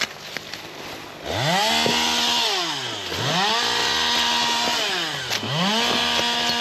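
Chainsaw engine revving up to full speed about a second in, held high, then dropping back towards idle and revving up again, three runs in all.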